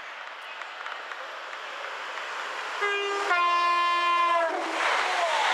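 Train coming through the station with its rushing noise building, and its two-tone horn sounding about three seconds in: a brief first note, then a second note held for about a second, followed by the loud rush of the train passing.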